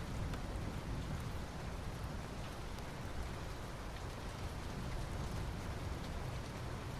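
Soft rain falling steadily on asphalt: an even hiss with faint scattered drop ticks over a steady low rumble.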